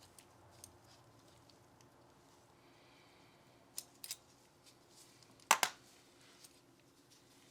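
Small sharp clicks and taps of Glock 19 Gen 5 pistol parts being handled during cleaning and trigger work, with a brief soft brushing sound, then a louder quick double click about five and a half seconds in.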